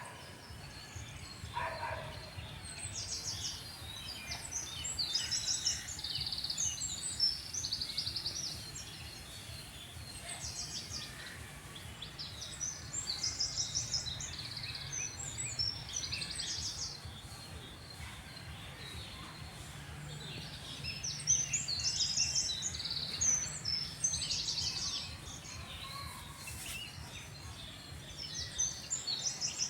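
Small birds chirping and twittering in quick, repeated trills, over a steady low rumble.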